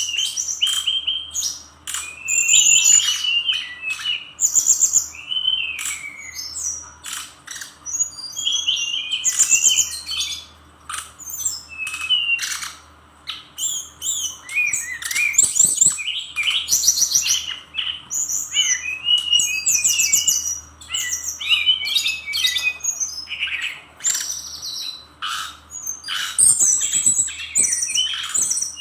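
Fulvous-chested jungle flycatcher in full song: a rapid, varied run of short sharp notes, quick trills and high whistles, delivered in dense bursts with only brief pauses.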